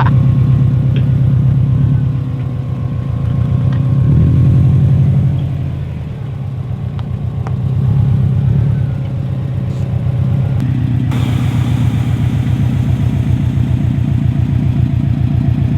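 Subaru WRX STI flat-four engine running with a low rumble, the revs swelling and easing off a few times; the sound changes abruptly about eleven seconds in, as if cut to another take.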